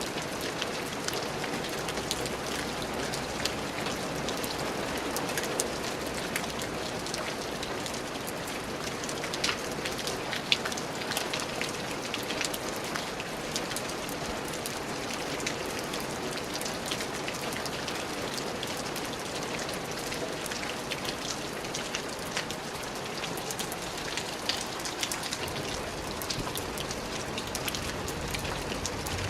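Steady rain falling, an even hiss with many distinct drops tapping on a surface.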